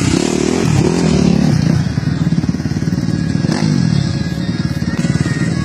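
Several motocross motorcycle engines running at once, revving up and falling back so their pitch rises and drops in overlapping sweeps.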